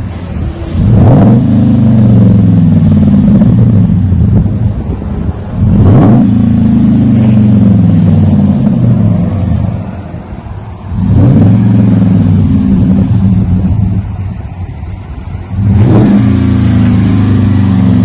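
2011 Ram 1500's 5.7-litre Hemi V8 running through a custom true dual exhaust with a dual-in, dual-out Magnaflow muffler. It is revved four times, about five seconds apart, each rev rising sharply and then falling back toward idle.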